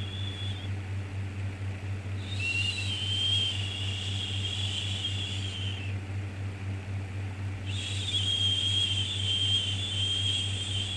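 A soothing 'shhh' shushing sound, repeated in long hissing breaths with short pauses between them. One ends just under a second in, the next runs from about two to six seconds, and another starts near eight seconds. A steady low hum continues underneath.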